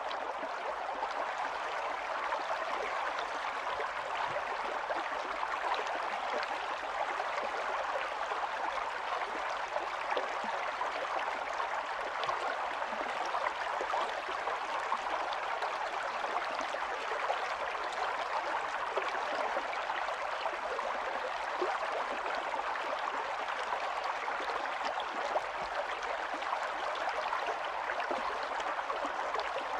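Small stream running steadily, a continuous rush of water with fine gurgles and splashes.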